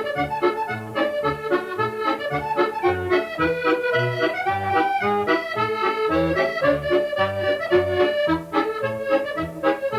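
Accordion playing a lively medley tune: a melody line over a steady pulse of bass notes and chords.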